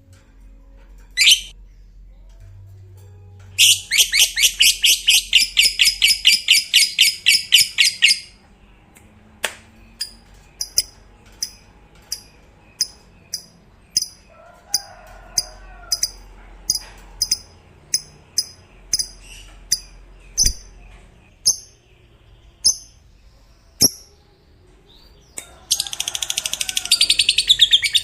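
Lovebird singing: a long, rapid chattering trill (the 'ngekek') lasting about four and a half seconds, then a string of sharp single chirps roughly every half second, and another rapid trill starting near the end.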